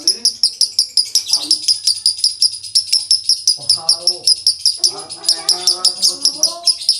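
Male lovebird singing 'konslet': an unbroken run of rapid, high, dry-toned chirps, about seven a second, kept up without a pause.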